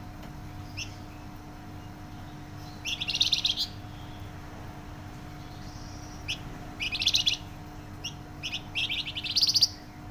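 Flamboyan songbird singing loud, rapid trilled phrases, three bursts of fast repeated notes with a few short single chirps between them. A steady faint hum runs underneath.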